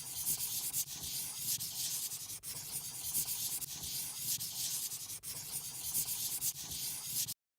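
A drawing tool scratching across paper in quick back-and-forth colouring strokes, a steady rough hiss that cuts off suddenly near the end.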